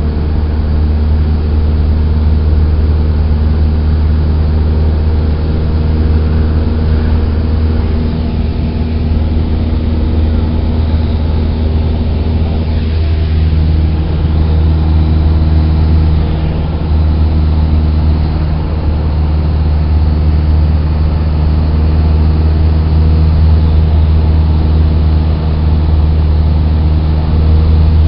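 Cessna 172's piston engine and propeller droning steadily, heard from inside the cabin; the engine note shifts slightly about halfway through.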